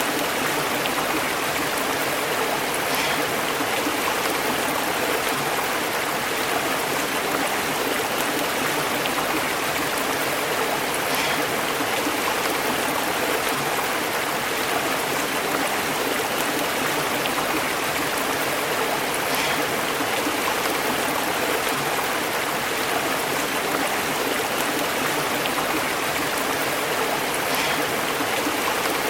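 Stream water burbling and bubbling steadily over rocks, with an occasional brief splash standing out.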